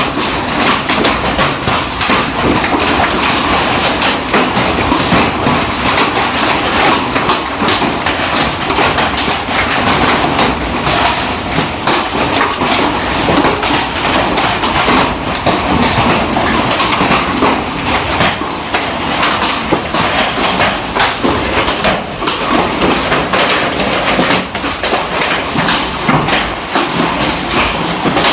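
Hailstorm: hailstones pelting a hard surface in a loud, dense, unbroken clatter of impacts.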